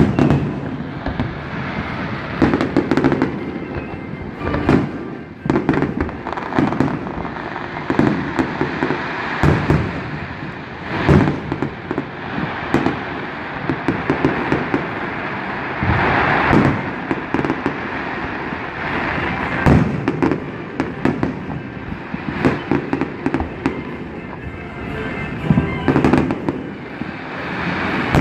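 Fireworks going off loudly, many sharp bangs in quick, irregular succession over a continuous rumbling background, with the biggest bangs about a third of the way in and near the end.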